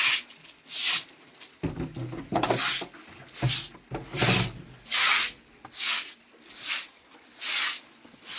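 Rhythmic rasping strokes, a little under one a second, with a low rumble under them through the middle.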